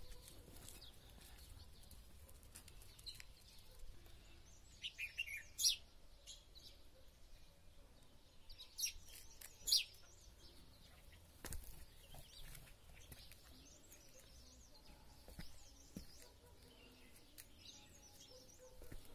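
Wild birds chirping off and on, with a few louder, sharper chirps about five and ten seconds in, over a faint low rumble.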